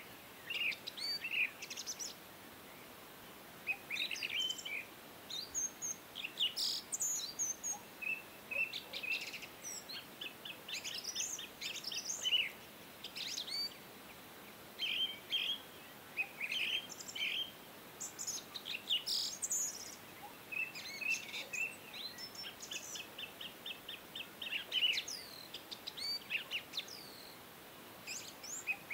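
Several birds chirping and calling in short bursts of high whistles, with a fast trilled call about three-quarters of the way through.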